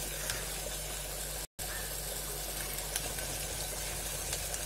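Tomato and ground pepper-cumin paste sizzling steadily in hot oil in an aluminium pot, with a brief cut-out in the sound about a second and a half in.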